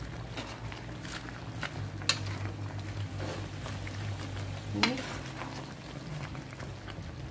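A spoon stirring a pot of vegetable and pork stew, with soft wet stirring and a few sharp clinks of the utensil against the metal pan, over a steady low hum.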